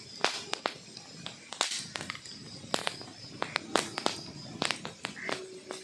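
Wood logs burning in a fireplace, crackling with irregular sharp pops and snaps over a low steady hiss.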